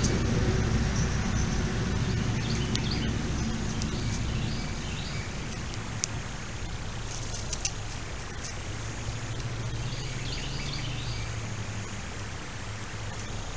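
Small birds chirping in short high bursts, a few times, over a low steady rumble that eases after about four seconds. There are a few sharp ticks.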